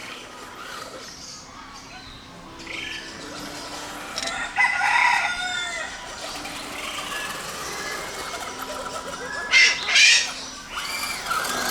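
A rooster crowing among other fowl calls and clucks, the louder calls coming about five seconds in and again near the end.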